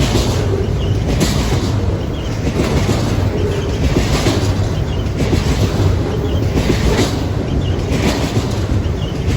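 Double-stack container freight train rolling past at speed, its wagons' wheels clattering on the rails with a repeating beat about once a second over a steady rumble.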